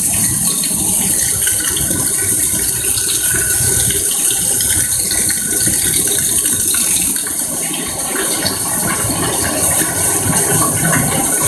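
Heavy rain falling steadily, a dense crackling hiss of drops.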